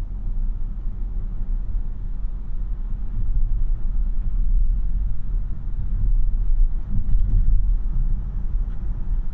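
Road and tyre noise heard from inside the cabin of a moving 2026 Tesla Model Y AWD: a steady low rumble that gets a little louder about three seconds in and again around seven seconds.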